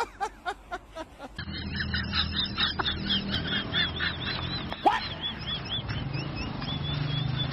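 A bird chirping in quick, high, repeated notes, about three a second, over a steady low hum. A few sharp clicks come in the first second or so.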